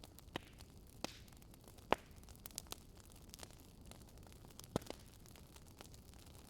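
Fireplace fire crackling: irregular sharp pops and snaps over a faint steady hiss, the loudest pop about two seconds in.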